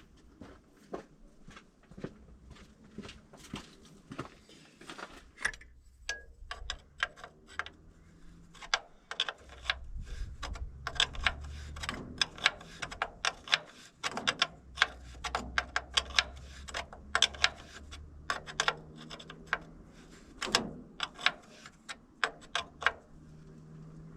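Irregular metallic clicks and clinks of a wrench working a hydraulic line fitting tight, with a low rumble now and then.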